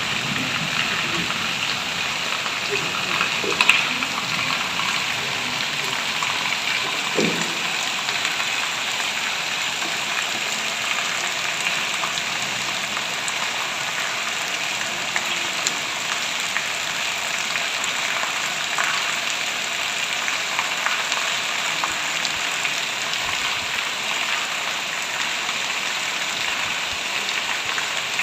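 Heavy rain falling steadily, an even dense hiss with a few sharper drops or taps standing out.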